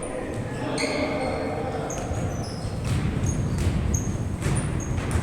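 Pickup basketball game: the ball bounces in dull thumps while sneakers squeak sharply and repeatedly on the court, over a murmur of voices.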